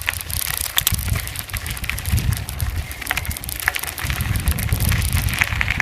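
Bicycle ridden down a dirt road: a steady low rumble of wind on the microphone, with tyres on the dirt and many scattered sharp clicks and rattles from the bike.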